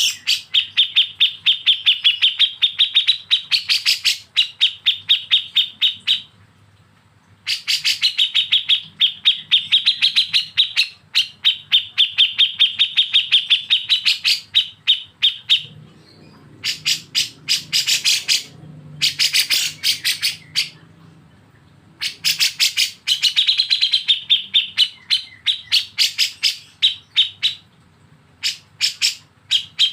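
Bulbul giving 'besetan' calls: fast runs of sharp, evenly repeated chirps, several a second, in bursts of a few seconds separated by short pauses.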